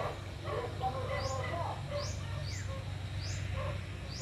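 Birds calling: short high chirps that rise in pitch repeat about once a second over lower warbling calls. A steady low rumble runs underneath.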